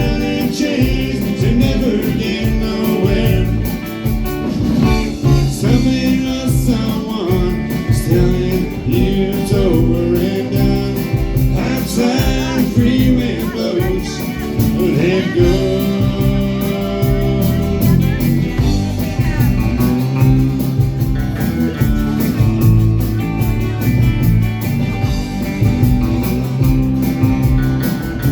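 Live band playing a song: singing over guitar, bass and drums.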